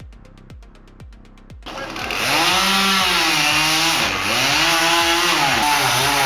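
Background music with an even kick-drum beat, then about two seconds in a loud chainsaw takes over, its engine pitch rising and falling as it revs up and down.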